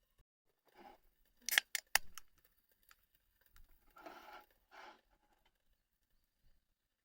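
Handling noises: a brief rustle, then a quick run of four or five sharp clicks, then two more short rustles.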